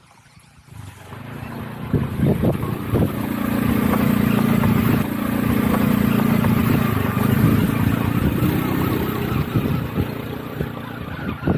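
Motorcycle engine running at a steady cruise during a ride, with wind and road noise. The sound rises over the first two seconds, then holds steady.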